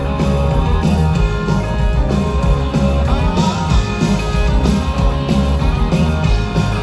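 Live rock band playing an instrumental passage between sung lines, with electric guitar over bass and drums.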